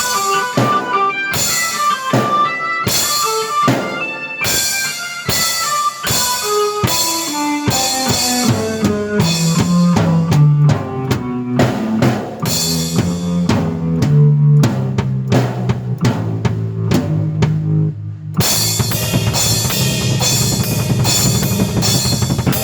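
Drum kit and keyboard played together: bass drum, snare and cymbal hits under a keyboard line that steps down in pitch. From about eight seconds in, low keyboard notes are held under the drums, and the sound grows fuller near the end.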